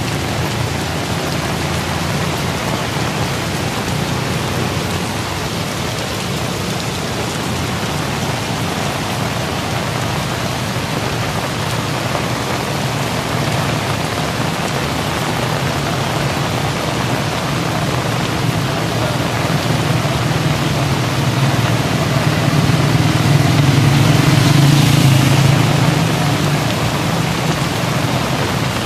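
Steady heavy rain falling and spattering on surfaces. A low rumble swells and fades about three quarters of the way through.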